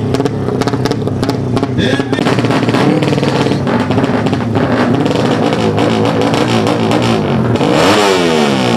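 Background music with a beat, mixed with a four-stroke drag motorcycle engine. Near the end the engine's pitch drops and then climbs sharply as it is revved hard.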